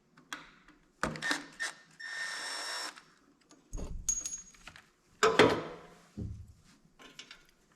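Hand tools working on a small engine: a few clicks, a power driver whirring for about a second, then knocks and a loud metal clatter about five seconds in as screws and tools are handled.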